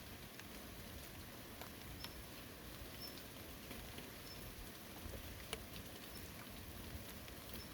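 Steady rain, an even hiss with scattered drip ticks and one sharper tick about five and a half seconds in. Faint short high chirps recur every second or two.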